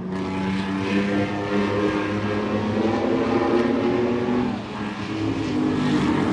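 Racing trucks' engines running together as the field laps the track: several engine notes overlap, each holding a fairly steady pitch, with a brief dip in loudness a little past halfway.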